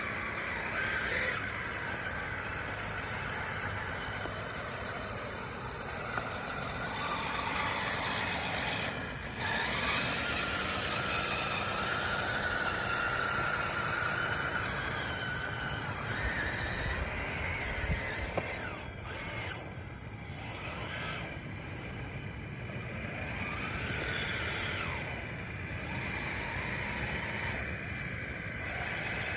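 Dxr2 RC bulldozer on wide tracks working: its motors and hydraulic pump whine steadily, the pitch gliding up and down as it drives and pushes, with a few short knocks.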